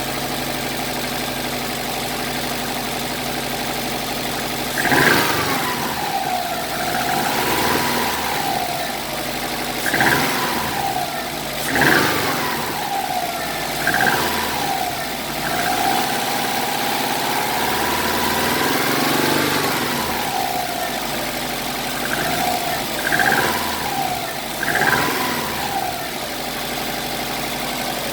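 Subaru EJ255 turbocharged flat-four idling, then blipped repeatedly, with one longer rev held for a few seconds in the middle before it settles back to idle. The owner hears a metal-on-metal sound between about 1,500 and 2,500 rpm, which he suspects is rod knock or a rod bearing issue.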